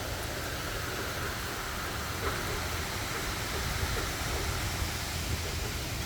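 Steady rain falling, a continuous hiss with a few faint drip ticks, over a low steady rumble.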